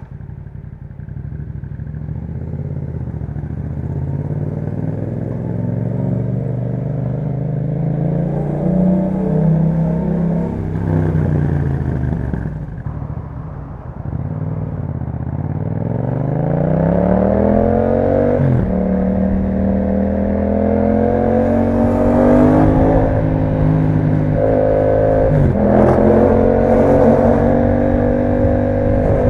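A 2021 Yamaha MT-07's 689 cc parallel-twin, breathing through an Akrapovic exhaust, under way on the road. The engine pitch climbs slowly, falls away about halfway through as the throttle closes, then rises hard and drops sharply several times in the second half as the rider accelerates and shifts up through the gears.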